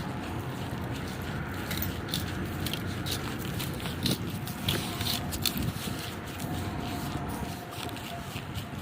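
Snow crunching and scraping in irregular sharp crackles over a steady low rumble.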